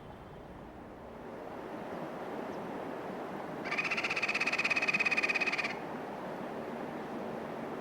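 An animal gives one fast, pulsed trill lasting about two seconds, starting around the middle, against a steady hiss of outdoor background noise.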